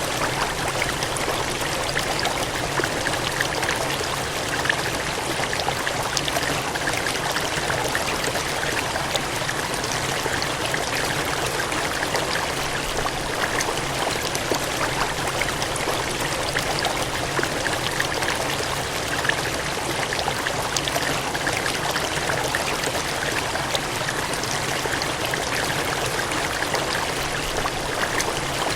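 Cascading water gushing steadily: an even rushing noise with fine splashing.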